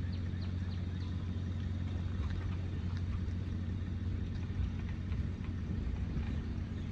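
Passenger train coach rolling slowly past on the track: a steady low rumble.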